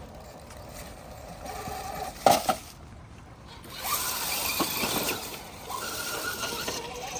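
Small electric motor and servo of an RC rock crawler whining in short spurts, with a sharp knock about two seconds in that is the loudest sound.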